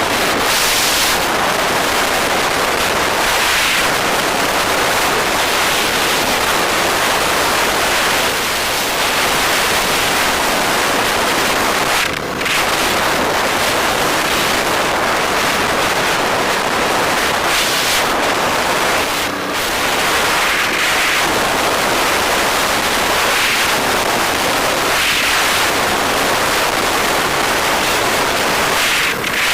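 Steady rushing wind buffeting the microphone of a moving bike. It drowns out the road and traffic, with two brief dips about 12 and 19 seconds in.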